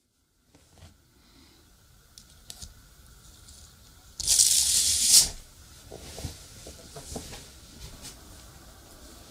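Light clicks and taps of small parts being handled, with a loud rasping, tearing-like noise about halfway through that lasts about a second and stops abruptly.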